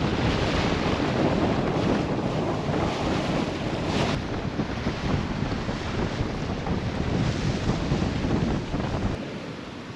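Strong wind buffeting the microphone, with water rushing and splashing against a sailboat's hull in rough, gusty conditions. The wind rumble drops away shortly before the end.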